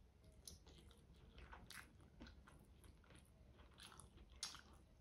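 Quiet, close-miked chewing of braised chicken and rice eaten by hand, with scattered wet mouth clicks and lip smacks; the sharpest smack comes about four and a half seconds in.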